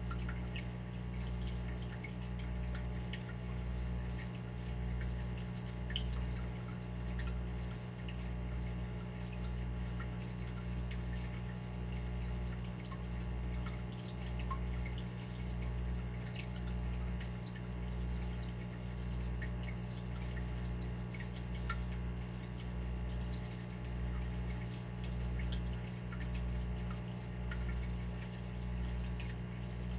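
Water dripping and trickling: scattered small drips over a steady low hum that swells about once a second.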